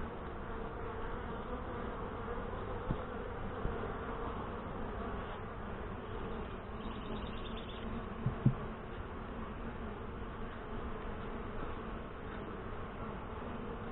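Honey bees from an open hive buzzing, a steady hum of many bees, with a few light taps from frame handling, the loudest about eight seconds in.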